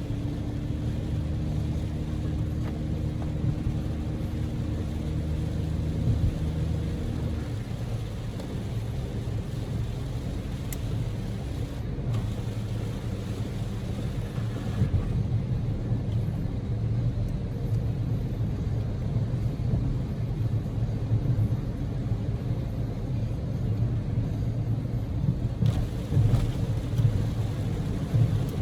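Cabin sound of a Daihatsu Move (L150S) kei car on the move: a steady low drone of its 660 cc three-cylinder EF-VE engine and tyre and road rumble. The engine's steady tone fades out about seven seconds in, leaving the road rumble.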